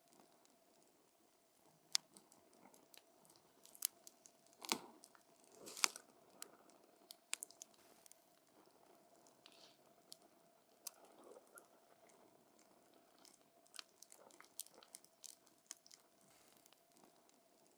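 Burning wood in a campfire crackling, with irregular sharp pops and snaps. A louder cluster comes about five seconds in, over a faint hiss and a thin steady tone.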